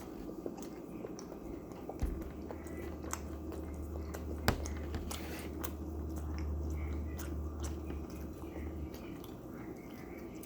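A person chewing and biting food close to the microphone, with many small mouth clicks. A steady low hum comes in about two seconds in and stops near the end, and one sharp click sounds about midway.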